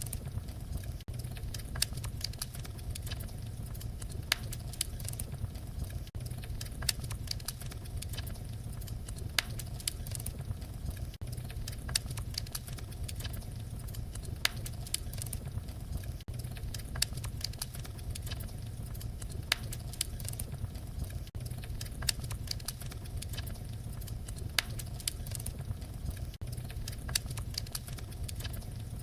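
Fire crackling: irregular sharp pops and snaps over a steady low rumble of burning flames.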